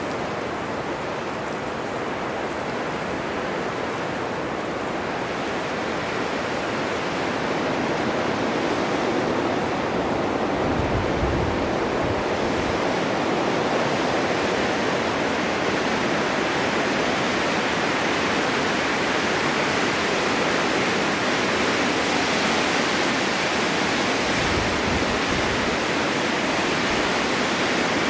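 Strong winter wind blowing steadily in a snowstorm, a broad rushing hiss that swells slightly a few seconds in, with two brief low rumbles from gusts.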